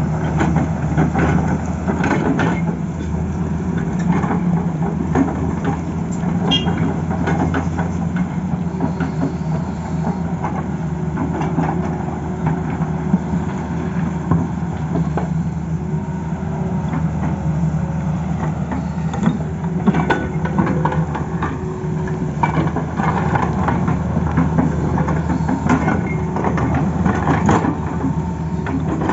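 Tata Hitachi excavator's diesel engine running steadily, with frequent clanks and knocks over it.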